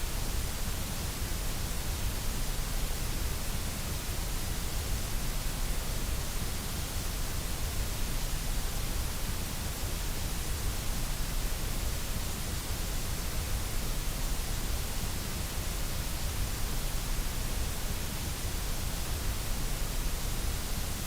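Continuous white noise, a steady unchanging hiss across the whole range with a deep rumble underneath.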